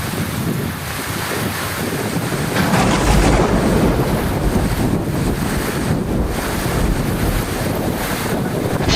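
Heavy rain pouring steadily, with a deep rumble of thunder swelling about three seconds in and rolling on to the end.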